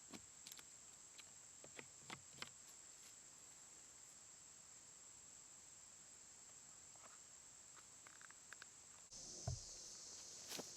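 Faint, steady high-pitched insect chirring, with a few faint scattered clicks and taps. A low thump comes about nine and a half seconds in, followed by a couple of sharper clicks near the end.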